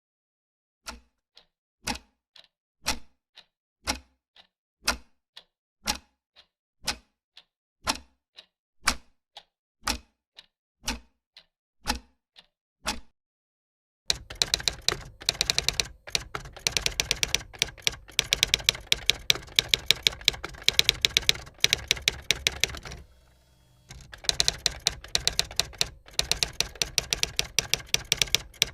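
Typewriter keys being struck. At first come slow, evenly spaced strokes, about one a second, with a fainter click between each. About halfway through this gives way to fast, continuous typing, which stops for about a second near the end and then resumes.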